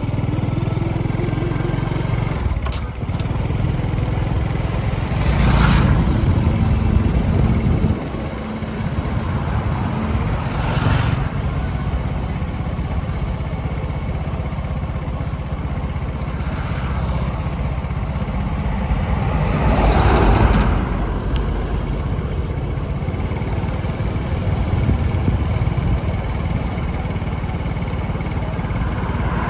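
A small engine running steadily, with louder rushes of noise every few seconds.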